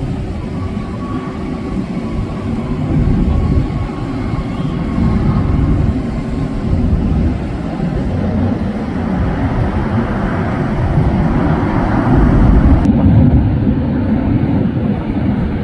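Jet airliner engines, a loud low rumble with a faint high whine, swelling about ten to thirteen seconds in.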